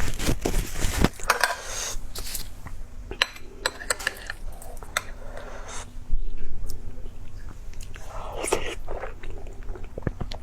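A person biting and chewing food, with irregular crunches and wet mouth clicks.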